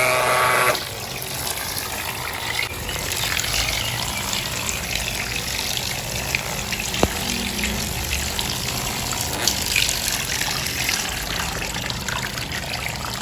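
Water running and splashing in a steady rush, with one sharp click about seven seconds in.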